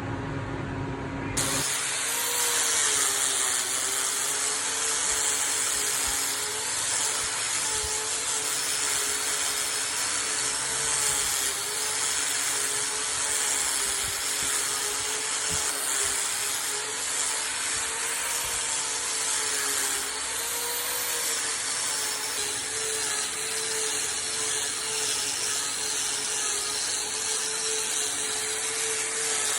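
Power tool running steadily while working wood, with a loud high hiss and a motor tone that wavers slightly in pitch as the load changes. It starts abruptly about a second and a half in, replacing a lower hum.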